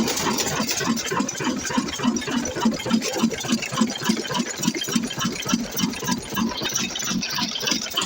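Big old black stationary engine running at slow speed, chugging steadily at about four even beats a second.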